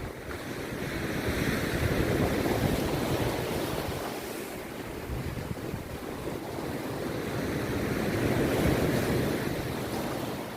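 Rough sea surf breaking on a beach: two waves swell up and wash in, one peaking about two seconds in and the next about eight seconds in.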